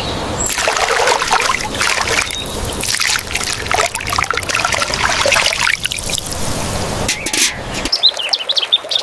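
Water trickling and splashing with an uneven patter, and a few short bird chirps near the end.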